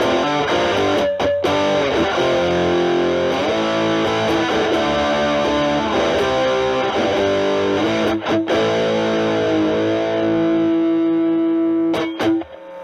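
Fender Stratocaster single-coils through a Proco RAT2 stacked with an Ibanez TS9 into a Marshall Valvestate amp, with the guitar's volume knob rolled back so the distortion cleans up to a light overdrive. It plays a bluesy lead line with string bends, ending on a long sustained note that cuts off just before the end.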